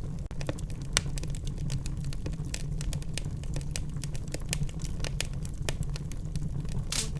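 Wood fire in a fireplace crackling: a low steady rumble of the flames under frequent, irregular sharp pops, with a louder snap about a second in.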